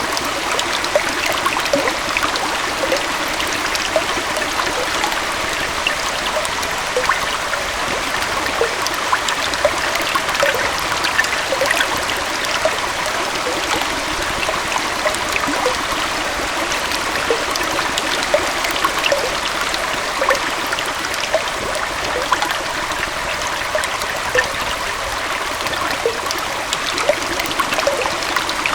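Small waterfall and stream flowing steadily, a continuous rush of water with many small splashes and bubbling blips through it.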